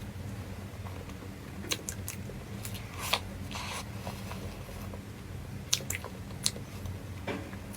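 A person eating close to the microphone: bites and chewing, with scattered sharp crisp clicks and short wet squishy mouth sounds, over a steady low hum.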